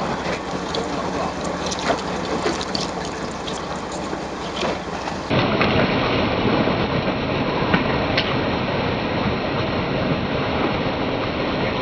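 Steady wind and water noise on a small fishing boat at sea, with a few faint clicks and knocks. The noise changes abruptly about five seconds in.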